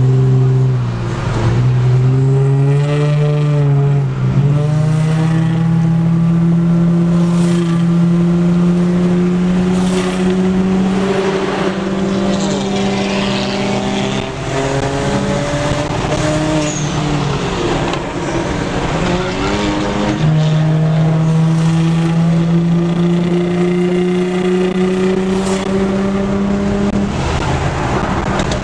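Car engine pulling hard through the gears, its pitch climbing slowly over long stretches and dropping sharply several times at gear changes.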